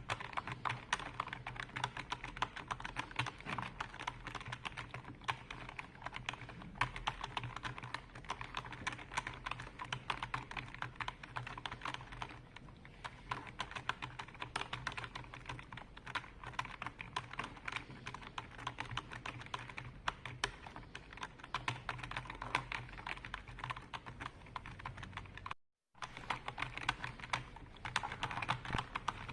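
Fast, continuous typing on a computer keyboard: a dense, unbroken stream of key clicks with a faint steady low hum beneath. The sound cuts out completely for a fraction of a second about 26 seconds in, then the typing resumes.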